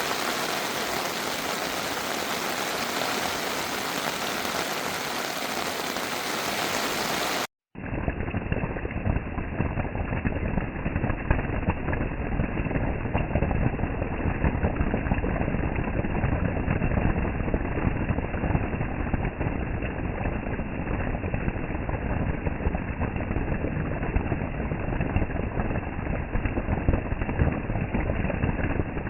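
Heavy rain falling in a steady hiss. After an abrupt cut about seven and a half seconds in, a duller-sounding recording of heavy rain pattering densely on a surface.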